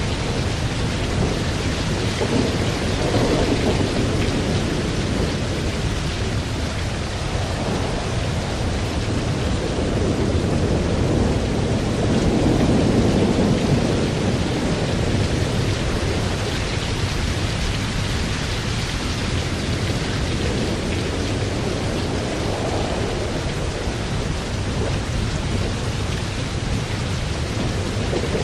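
Thunderstorm: steady heavy rain with low rolling thunder that swells and fades several times, most strongly around the middle.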